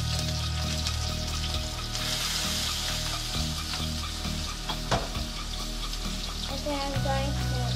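King prawns sizzling as they fry in hot oil in an electric wok, a steady hiss, with one sharp knock about five seconds in.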